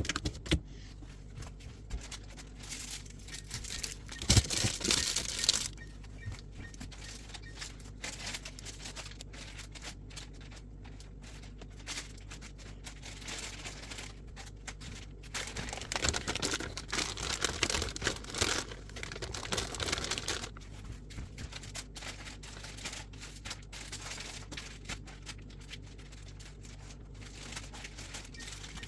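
Plastic food packaging crinkling and rustling as it is handled. There are two louder bouts, one about four seconds in and one from about sixteen to twenty seconds in, with quieter handling noise between.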